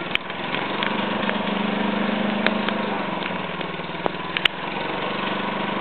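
A small engine's steady, even drone, with a few faint clicks over it.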